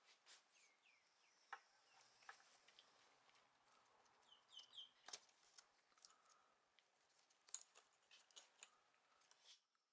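Near silence with faint scattered light clicks and taps and a few faint bird chirps, three short ones around four and a half seconds in.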